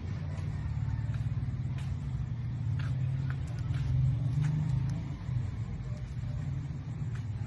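Low engine rumble of a motor vehicle running, made of rapid even pulses, swelling a little about four seconds in, with a few faint clicks.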